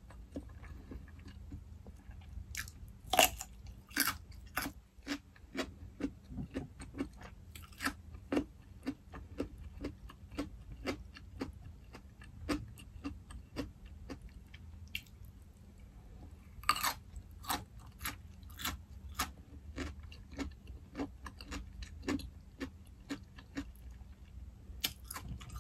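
A radish being bitten and chewed close to the microphone: irregular crisp crunches and mouth sounds throughout, with a few louder crunches, two in the first few seconds and one about two-thirds of the way through.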